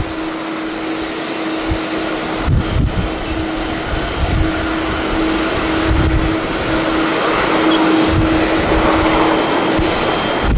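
Jet airliner engines running with a steady rushing hiss and a held low hum, swelling slightly near the end, while gusts of strong wind buffet the microphone in irregular low thumps.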